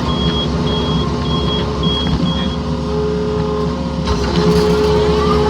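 Yanmar mini excavator's diesel engine running steadily at work. A short high beep repeats about twice a second, five times, through the first half.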